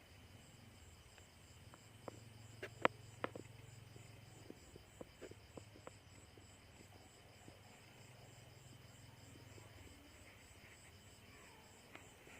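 Faint night insects chirping in a steady, rapid pulsed trill, over a low steady hum. A few sharp clicks come between about two and six seconds in, the loudest around three seconds in.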